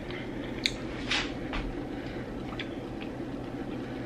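A person chewing a bite of lamb in gravy: a few short mouth clicks and smacks, over a steady low hum.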